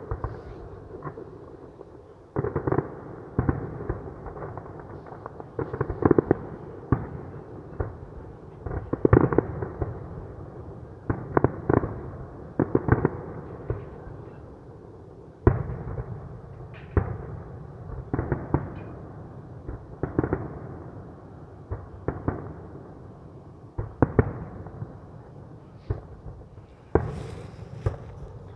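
Fireworks display: a steady run of booming shell bursts, often several within a second, with echoing rumbles and crackle between them.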